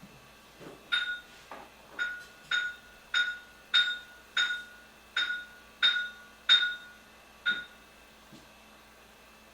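About ten sharp clanks on a hard object, roughly every half second to second, each ringing briefly with the same clear tone. It sounds like a tool hammering or tapping on metal or porcelain plumbing.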